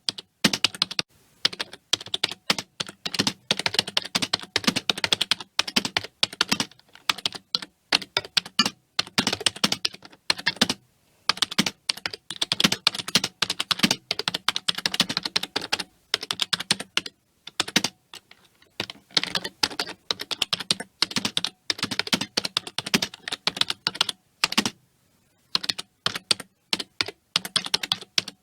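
Computer keyboard being typed on quickly, fast runs of key clicks broken by short pauses of under a second.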